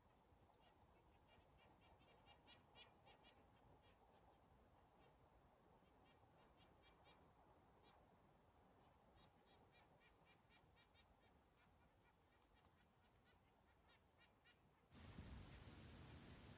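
Near silence with faint, high bird chirps scattered here and there. A faint steady hiss comes in near the end.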